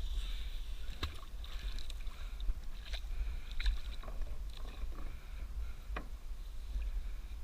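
Waterside ambience at a pier: a steady low rumble of wind on the microphone over water sloshing, with a few sharp clicks spread through.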